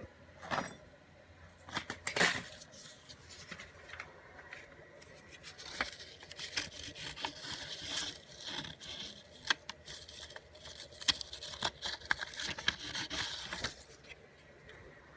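Irregular hand scraping and rubbing on a hard workpiece, with many sharp clicks and knocks; it grows busier about six seconds in and dies down near the end. No motor is running.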